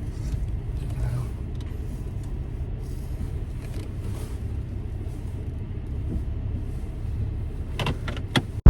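A car running with a steady low rumble as it moves into the wash bay. A few sharp clicks come near the end.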